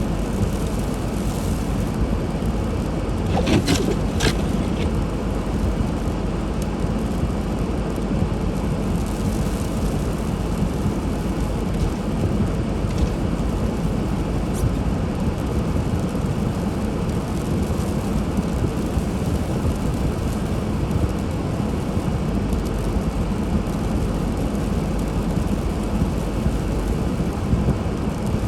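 Steady low rumble of a car driving: engine and tyre noise on the road. A few brief sharp high squeaks or clicks come about three to four seconds in.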